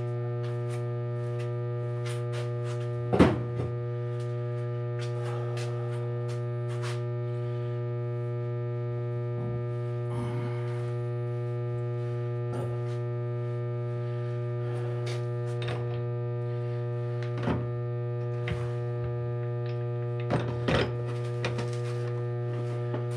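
Steady electrical hum, with sharp metal clinks and knocks now and then as tools and parts are handled during an engine teardown; the loudest knock comes about three seconds in.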